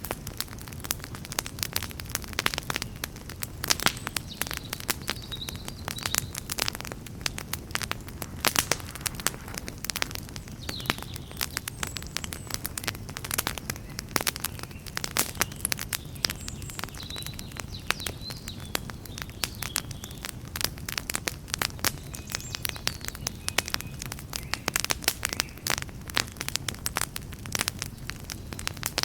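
Campfire burning, the wood crackling with many irregular sharp snaps and pops over a steady low rumble of the flames. A few faint high chirps come and go.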